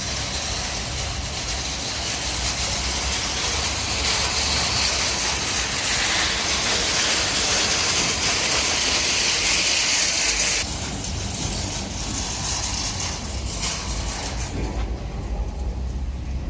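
Electric pallet truck running: a steady hiss that grows louder about four seconds in and cuts off suddenly about ten seconds in, over a constant low hum.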